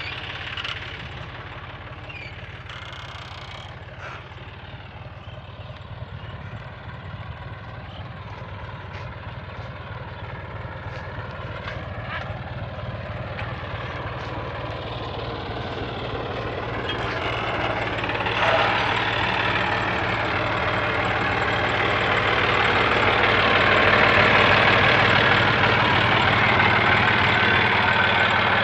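John Deere tractor's diesel engine running steadily, growing louder through the second half.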